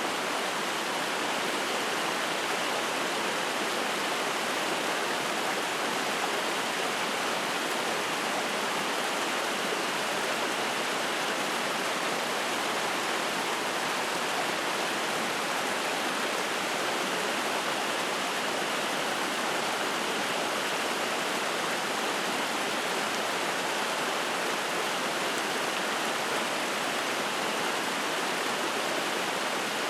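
Spring-fed mountain stream rushing and splashing in a steady, even flow of water.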